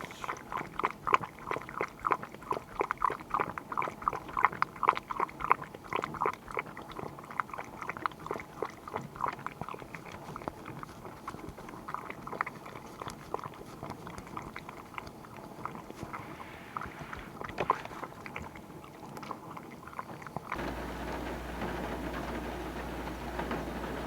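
A dog crunching and chewing something hard, a few bites a second at first and thinning out after about ten seconds. Near the end it cuts to a steady rushing noise with a low hum.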